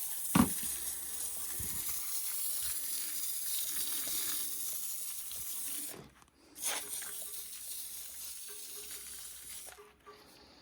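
Pump-up foam sprayer hissing as it sprays snow foam. The steady hiss cuts off about six seconds in, then comes back weaker for about three seconds and stops. A short thump sounds just after the start.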